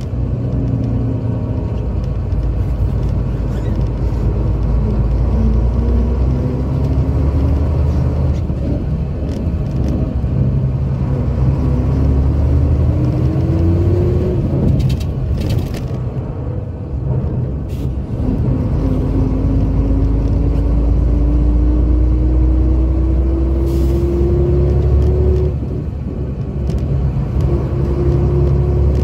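Scania K82SR coach's diesel engine pulling under load with a deep rumble. Its note climbs steadily through each gear and drops back at each gear change, several times over.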